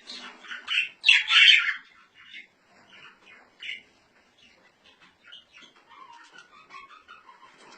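Small songbirds chirping and singing, a loud run of calls in the first two seconds followed by softer, scattered chirps.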